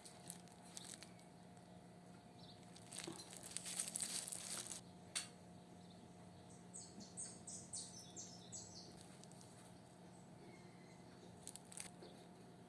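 A small bird chirps a quick run of short, high notes. Before it come a brief hiss and a sharp click.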